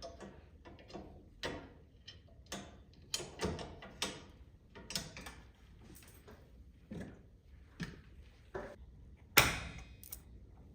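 Irregular clicks, taps and light knocks of hands handling and fitting garage door safety-sensor parts and mounting hardware, with one louder knock near the end.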